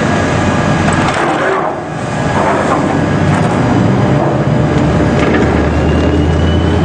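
Heavy machinery engine running steadily under loud, rough noise, dipping briefly about two seconds in, with a faint rising whine near the end.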